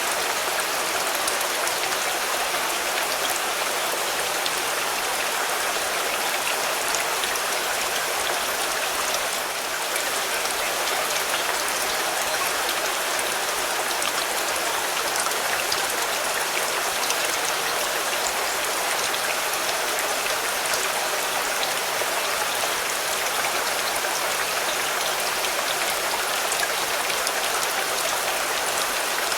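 Steady rain falling on a car, a dense even patter of drops, dipping slightly for a moment about nine seconds in.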